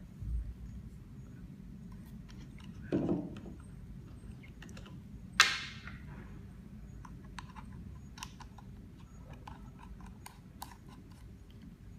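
Small clicks and taps of a stainless-steel vape atomizer's parts being handled, twisted and set down. There is a dull knock at the start, a soft thud about three seconds in, and one sharp, loudest click about five seconds in.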